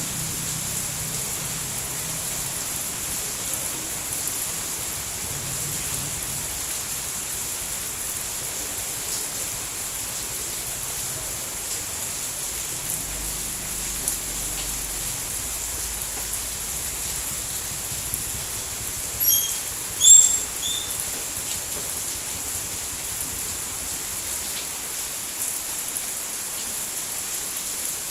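Steady rainfall, an even hiss. Twice, about nineteen and twenty seconds in, a short high chirp rises briefly above it.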